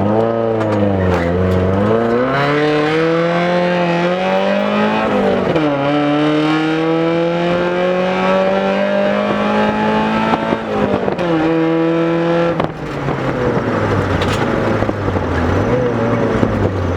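Mazda MX-5 Miata's 1.8-litre four-cylinder engine through a short side-exit exhaust pipe welded on behind the catalytic converter, accelerating hard up through the gears. The revs climb and drop at three upshifts, then fall away to a steady lower drone as the throttle is eased near the end.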